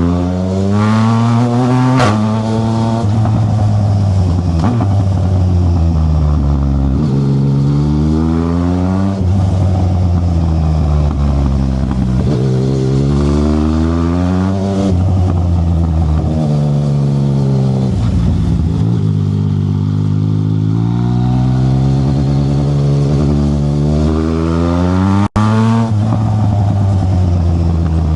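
Yamaha Tracer 900 GT's inline three-cylinder engine through an aftermarket Black Widow exhaust, riding under load: the revs climb and drop again and again as it accelerates through the gears and rolls off. The sound cuts out for an instant about 25 seconds in.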